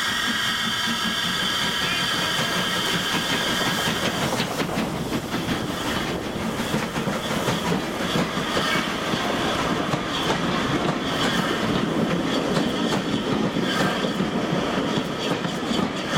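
A train of old wooden-bodied railway carriages rolling past along the platform, its wheels clicking irregularly over the rail joints over a steady rumble. For the first few seconds a steady steam hiss from a standing locomotive is heard before the wheel clicks take over.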